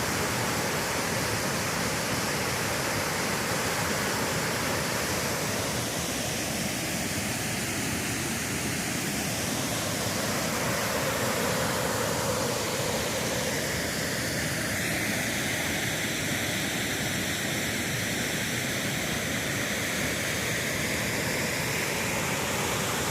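Wynoochee Falls, a large waterfall, pouring: a steady, even rush of falling water, its tone shifting slightly at times.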